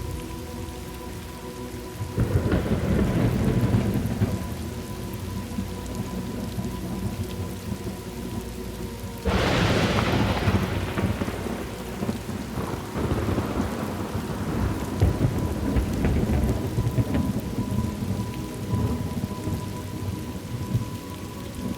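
Thunderstorm: steady rain with two rolls of thunder, the first building about two seconds in, the second a sharper crack about nine seconds in that rumbles away slowly.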